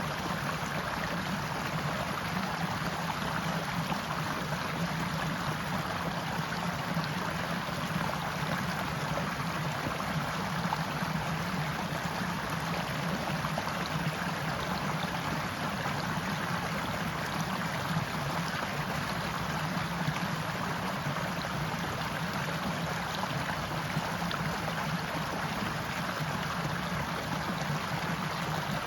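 Forest stream water flowing steadily.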